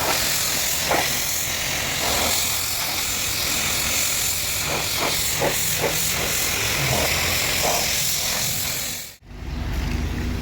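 Pressure washer spray hissing steadily as it blasts the car. About nine seconds in it cuts off abruptly, and a low rumble takes over.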